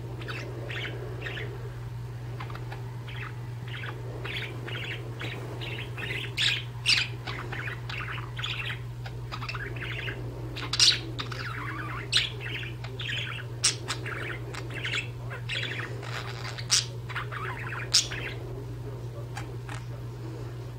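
Two budgerigars chattering with rapid, continuous chirps, broken by several sharper, louder squawks, over a steady low hum.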